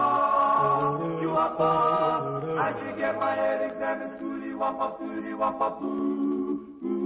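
A cappella doo-wop vocal group singing in close harmony, unaccompanied by instruments. A low bass part moves in steps beneath the held chords in the first half.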